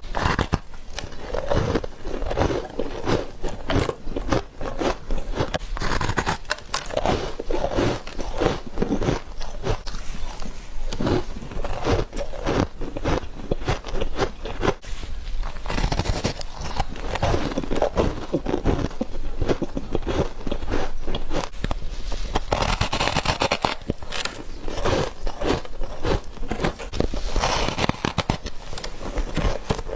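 Someone biting into freezer frost and ice, one crisp crunch after another in a dense, unbroken run.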